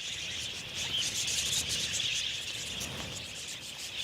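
A large flock of budgerigars chattering together: a dense, steady, high-pitched chorus of many small overlapping calls.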